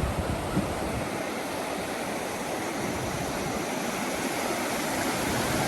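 Ocean surf: a steady rush of whitewater from breaking waves, with a few short low thumps in the first second.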